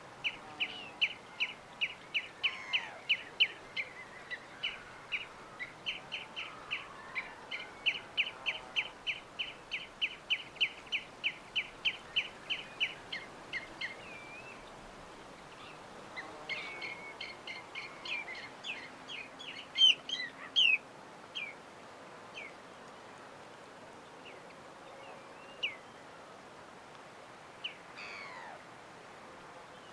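A small bird chirping in a long, even series of short high chirps, about three a second, then breaking off. After a pause comes a second, more varied burst of chirps and a few sweeping calls, then scattered single chirps, over a faint steady background hiss.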